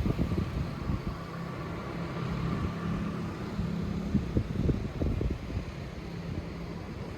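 Wind buffeting the microphone in uneven low gusts, over a steady low hum.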